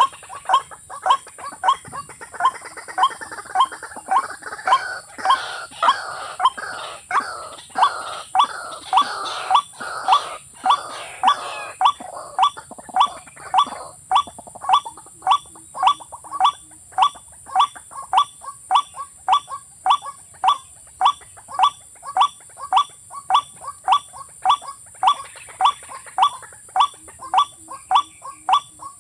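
A bird's short call, repeated very evenly about twice a second, each note a quick upward-sliding grunt-like call. For the first dozen seconds a rougher, noisier sound sits behind it, and a steady high-pitched whine runs underneath.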